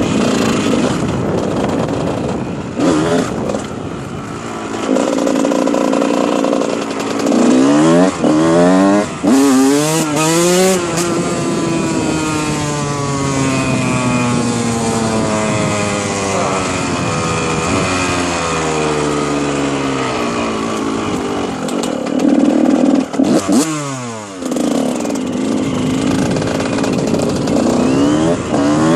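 2001 Honda CR125 two-stroke dirt bike engine being ridden, revving up hard through the gears and falling away in long glides as the throttle is rolled off, with more sharp revs near the end.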